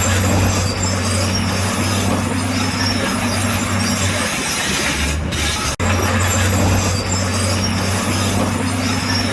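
Bulldozer working: a steady diesel engine drone under the squeal and clatter of its steel tracks. The sound drops out for an instant a little before six seconds in, then carries on the same.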